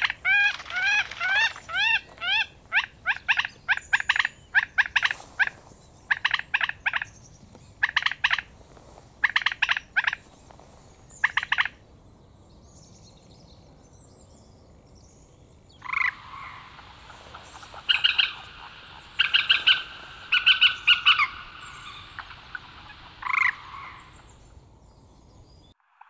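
A bird calling over and over: a quick run of short rising notes, then groups of sharp clicking notes, a few quiet seconds, and another run of harsher calls.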